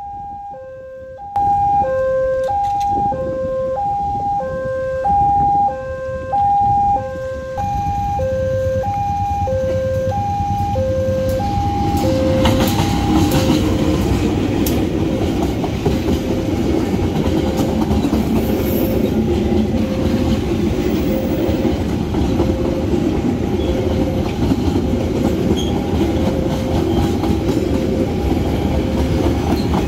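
A railway level crossing's electronic warning alarm rings, alternating a low and a high tone. From about eight seconds in, a locomotive-hauled passenger train passes close by, its engine and wheels rumbling on the rails and drowning the alarm.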